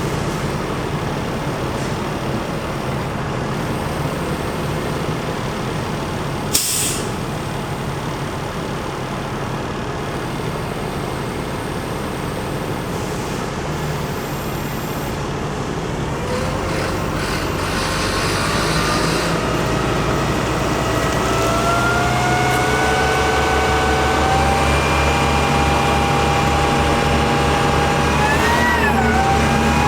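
Diesel engine of an International 4400 truck (DT466) running, with a short burst of air hiss about six seconds in. About halfway through, the engine's pitch rises and then holds steady at a higher speed.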